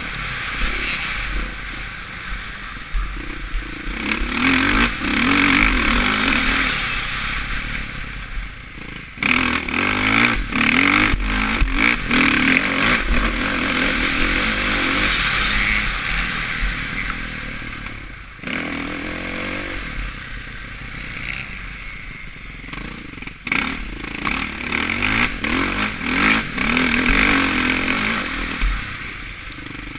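Suzuki RM-Z450 motocross bike's four-stroke single-cylinder engine revving hard and easing off again and again as it is ridden, heard from a helmet-mounted camera. The throttle shuts off sharply several times, about a third of the way in and twice more later on.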